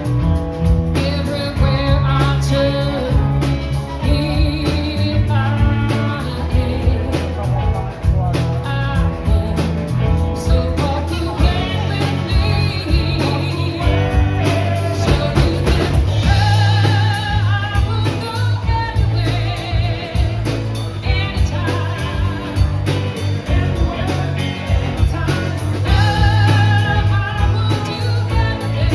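A band playing a blues-rock song, with a singer holding wavering notes over electric guitar, bass and drums.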